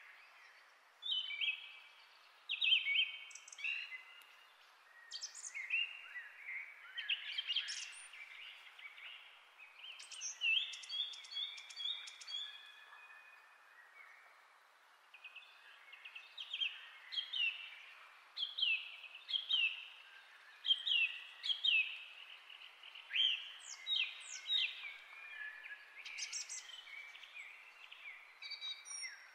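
Small birds chirping and singing: short calls with quick downward-sliding notes, many of them about once a second, with a brief rapid trill, over a faint steady hiss.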